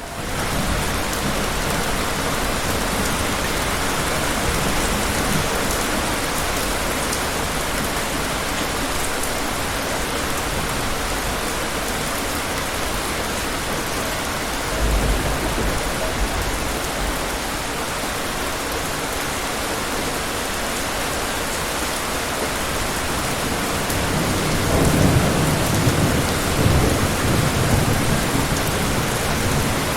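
Steady rain with thunder. A short low rumble comes about halfway, and a longer, louder rumble near the end.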